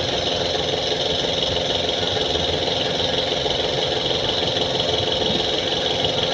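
An engine running steadily at an even level, with no change in speed.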